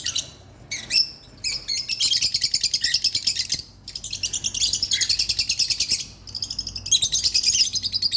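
Small birds chirping in fast, high-pitched runs of many chirps a second, each run lasting a second or two, with brief breaks between them.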